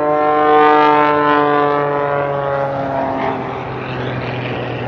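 An aerobatic sports plane's engine flying overhead. Its note falls slowly in pitch and fades after about three seconds into a rougher rushing sound.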